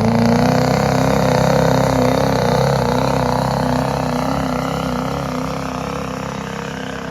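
Diesel pickup truck engine running hard under load while pulling the sled, its pitch wavering up and down. It grows gradually quieter over the second half as the truck moves away.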